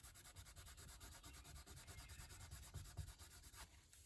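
Paper towel wiping and rubbing over a car door panel to clear off stray spray adhesive: faint, repeated scrubbing strokes.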